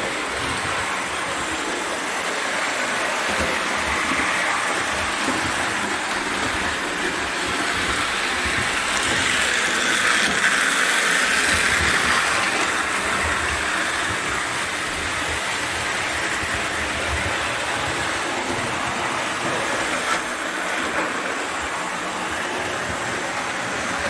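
O gauge toy train running on the track, its motor and wheels making a steady whirring rumble that swells around ten seconds in and then settles back.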